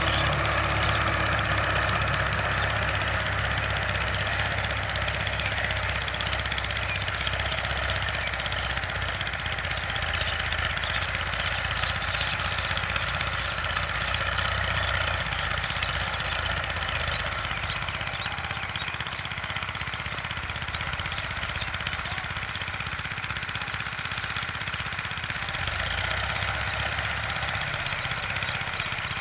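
Sonalika DI 745 tractor's diesel engine running steadily at a low, even speed.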